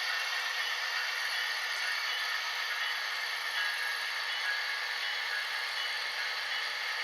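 HO scale model diesel locomotives running on the layout: a steady hissing rattle with no deep rumble.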